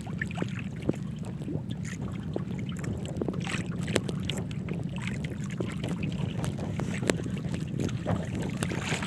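Steady low rumble of a small fishing boat's motor, with scattered sharp knocks and clicks, the loudest about one, four and seven seconds in.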